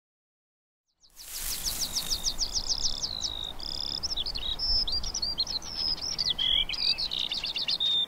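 A songbird singing, starting about a second in: a fast run of quick down-slurred notes, then varied warbling phrases, over a faint outdoor hiss.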